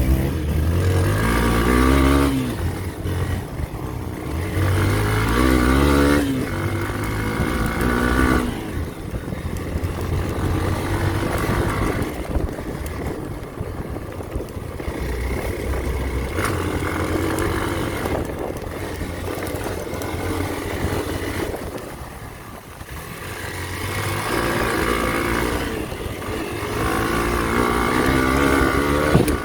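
Motorcycle engine running under way, revving up in rising surges and easing off several times, with steadier stretches between.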